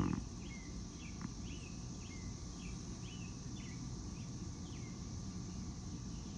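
A bird chirping over and over, short falling chirps about twice a second, faint over a steady low background noise.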